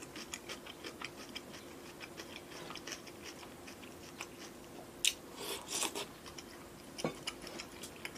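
Close-miked eating: small wet mouth clicks while chewing, with a louder run of biting and chewing about five seconds in and a sharp click near seven seconds. A faint steady hum sits underneath.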